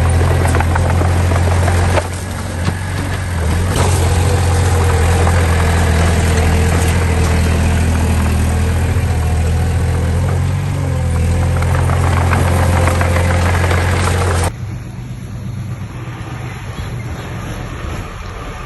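Heavy earthmoving machine's diesel engine running steadily with a deep, even hum. The sound dips sharply about two seconds in and then returns. Near the end it drops abruptly to a quieter, rougher engine sound.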